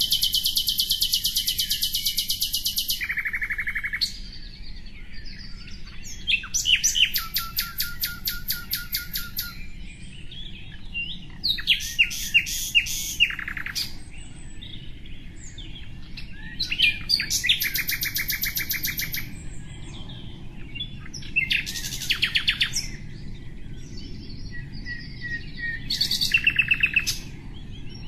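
A songbird singing phrases of rapid, high trilled notes, each phrase one to three seconds long, with pauses of a few seconds between them.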